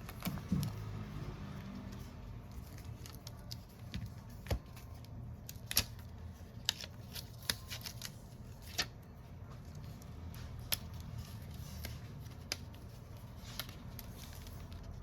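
Irregular sharp clicks and light taps of small hand tools against a smartphone during a screen repair, over a low steady hum.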